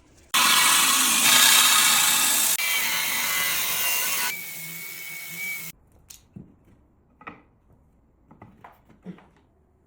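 A power tool running for about five seconds, dropping in level twice and then cutting off suddenly, followed by a few light knocks.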